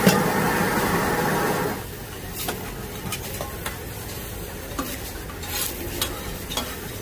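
Metal spatula scraping and clinking against a wok as noodles are stir-fried, with a light sizzle. For the first second and a half a loud steady rushing noise covers it, then cuts off suddenly.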